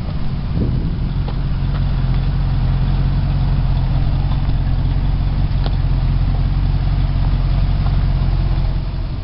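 1977 Lincoln Mark V's V8 engine idling steadily, heard from behind the car at the exhaust: an even low hum.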